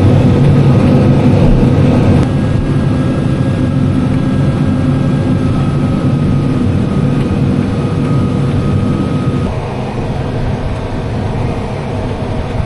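Steady drone of a heavy diesel farm machine's engine during unloading on the go, its level stepping down about two seconds in and again about nine and a half seconds in.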